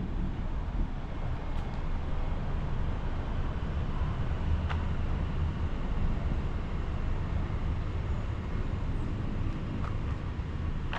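A steady low mechanical rumble, with a few brief sharp clicks over it.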